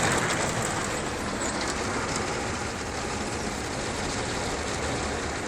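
Ryko soft-gloss car wash side brush spinning and scrubbing against the car body with water spraying, a steady dense swishing rumble heard from inside the car.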